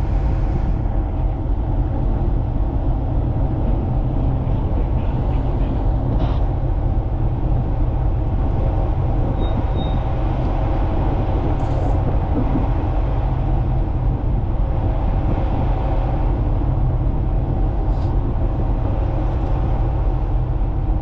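A ship's diesel engine running steadily, heard on board as a loud, even low drone with a constant hum.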